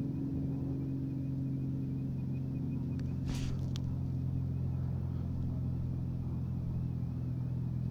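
Steady low hum of a vehicle engine running, with a faint warbling alarm tone sounding through it and one brief hiss about three seconds in.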